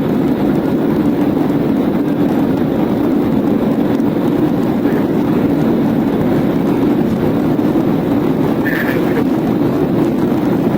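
Steady, loud vehicle noise, an even rumble without clear breaks or changes.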